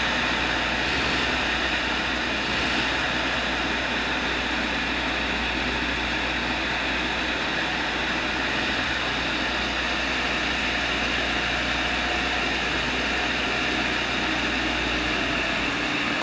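Tool and cutter grinder running with a steady, unbroken whir and hiss.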